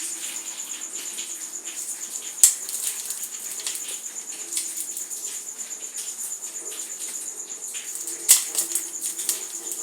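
Dry material being crumbled, giving a continuous fine crackling with sharp snaps about two and a half seconds in and again near the end. A faint steady high whine sits underneath.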